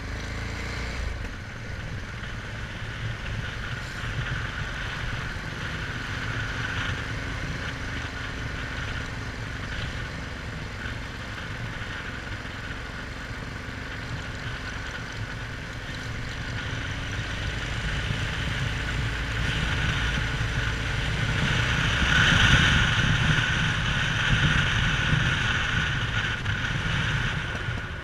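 Small boat's engine running steadily, growing louder from about halfway and peaking shortly before the end.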